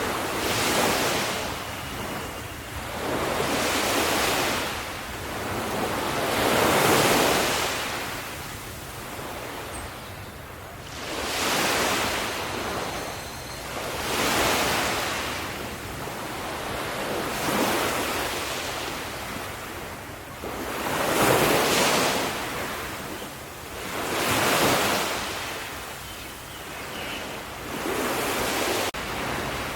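Ocean waves washing in, each surge swelling and falling away, about one every three seconds.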